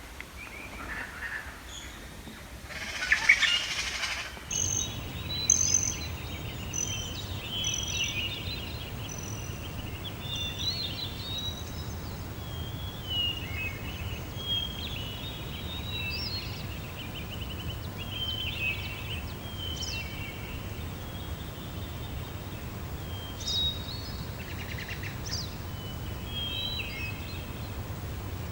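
Songbirds chirping and trilling, many short calls overlapping, over a steady low outdoor rumble. A loud noisy burst comes about three seconds in.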